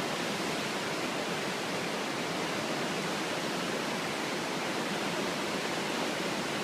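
Steady rushing of whitewater river rapids, an even roar with no breaks.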